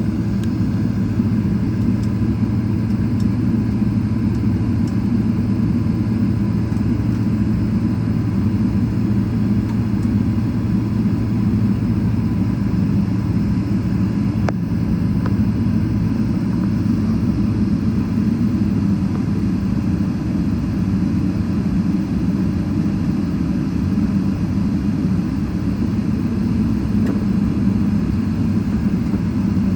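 Boeing 777-300ER with its GE90 engines running at low power: a steady low rumble with a faint steady whine above it.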